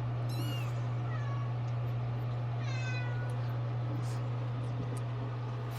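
A tiny kitten meowing: three short, high-pitched cries that fall in pitch, about half a second in, a fainter one at about a second, and another near three seconds. A steady low hum runs underneath.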